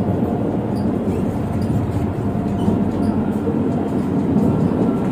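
Steady low rumble of a KTM Komuter electric train heard from inside the passenger carriage as the train runs.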